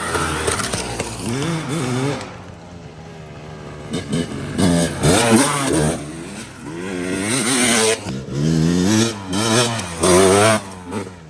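Dirt bike engine revved hard again and again as it rides up, the pitch rising and falling with each blip of the throttle.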